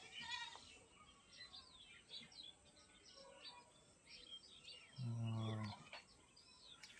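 Faint chirping of small birds, many short high calls throughout. About five seconds in, a low hummed voice sounds briefly for under a second.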